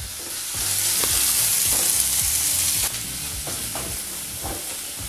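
Chopped onion, curry leaves and chillies sizzling in hot oil in a stainless steel kadai while a wooden spatula stirs and scrapes the pan several times: a tempering being fried. The sizzle is strongest for the first three seconds, then drops a little.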